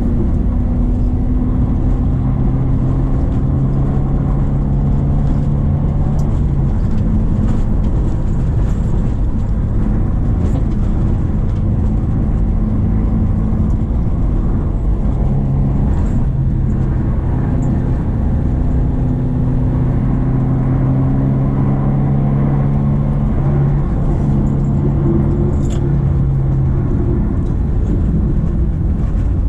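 Subaru XV 2.0's four-cylinder boxer engine pulling the car uphill, its pitch gliding and dropping several times as it speeds up and changes gear, over road noise.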